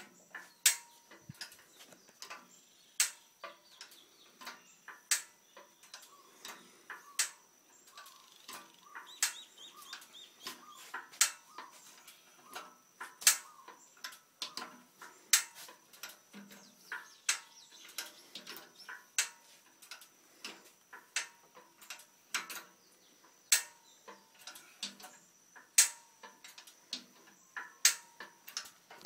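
Sharp clicks, the loudest about every two seconds with fainter clicks between, from a hydraulic engine hoist being pumped to raise an engine out of a truck.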